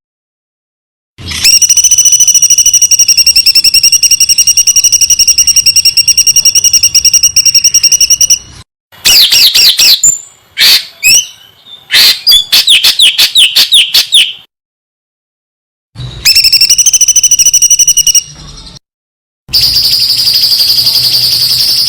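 Songbird song for contest-bird training: very rapid, high-pitched trills of repeated notes held at one pitch, in several spliced pieces separated by sudden silences. In the middle comes a stretch of quick sweeping notes that rise and fall.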